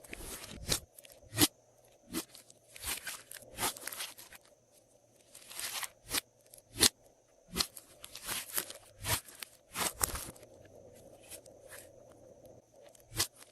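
Glossy slime being worked by hand: irregular sticky pops, clicks and crackles, some in quick clusters, with short quiet gaps between.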